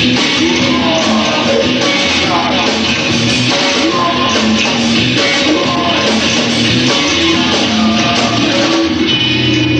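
A rock band playing live with electric guitars, a dense, loud and steady rock sound.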